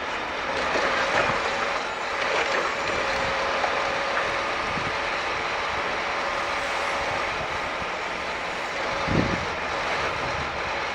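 Scania G440 timber truck unloading logs with its loader crane: the engine runs steadily under the hydraulic load, with a steady hydraulic whine. There is a heavy thump about nine seconds in.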